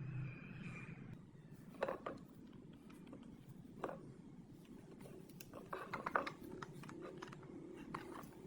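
Sharp clicks and knocks of things being handled, one about two seconds in, another at four, a quick cluster around six and one near the end, over a steady low hum.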